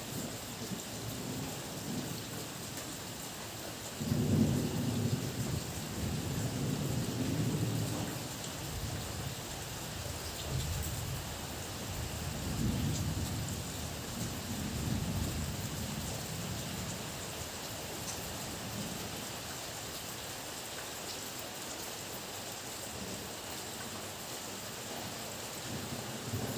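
Heavy rain falling steadily with thunder rumbling. A loud rumble breaks in suddenly about four seconds in and rolls on for several seconds, and a second, softer roll of thunder comes about halfway through.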